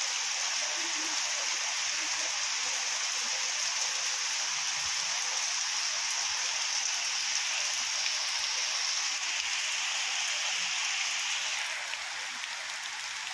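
Heavy rain pouring steadily, easing slightly near the end.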